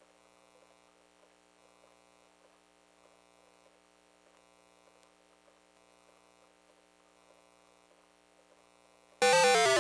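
Sanyo Circus III pachinko machine's electronic sound effect near the end: two quick runs of loud beeping tones falling in pitch. Before it there is only a faint steady electrical hum.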